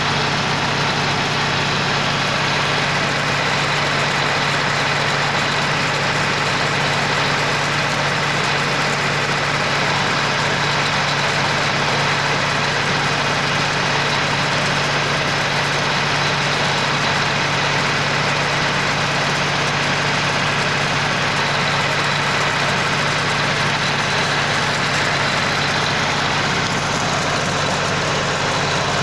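Tractor engine running steadily at a constant speed, driving a sprayer, with a continuous low hum and no change in pitch or level.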